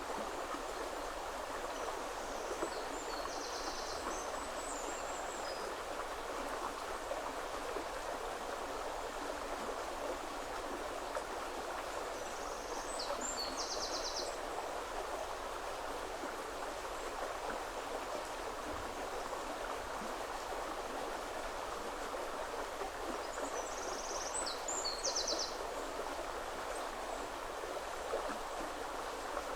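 Steady rush of a flowing river. Over it a small bird sings a short, high, trilling phrase three times, about ten seconds apart.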